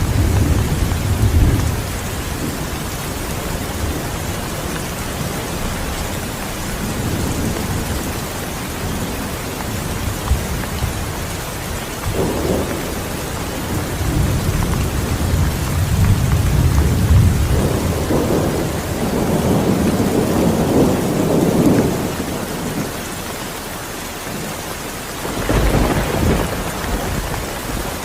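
Steady heavy rain falling, with low thunder rumbling several times: briefly at the start, a long roll through the middle, and a shorter, stronger rumble near the end.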